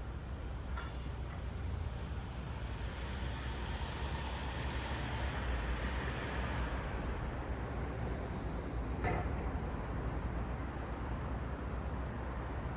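Road traffic at night: a steady low rumble, with one vehicle passing and its tyre noise swelling and fading in the middle, and a couple of short clicks.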